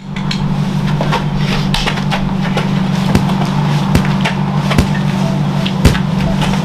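Steady low rumble of a running vehicle, with a few sharp knocks about three, four, five and six seconds in.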